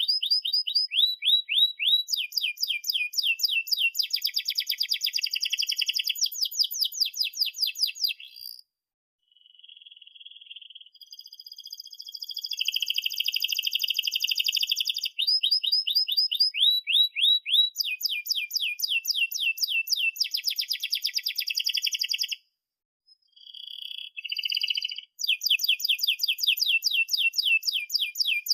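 Domestic canary singing long, rapid rolling trills and runs of fast falling chirps, stopping briefly about nine seconds in and again just past twenty-two seconds before starting up again.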